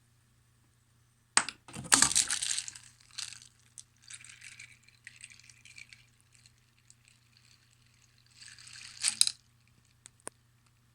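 Parts of a homemade Rube Goldberg machine working: a sharp knock, then a rush of water pouring and splashing, followed by small objects clattering and rattling. A second rush swells and cuts off about nine seconds in, and two sharp clicks come near the end.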